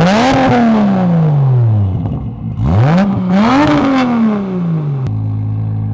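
Car engine revved hard twice, each time the pitch climbing quickly and then falling back slowly as the revs drop. About five seconds in, the sound switches abruptly to a steady hum.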